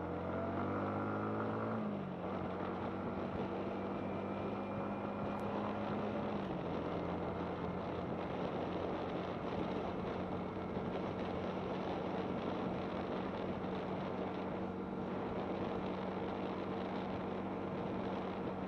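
Yamaha MT-15's single-cylinder engine revving up under way, its pitch dropping about two seconds in and then holding steady as the bike cruises, over a steady rush of wind noise.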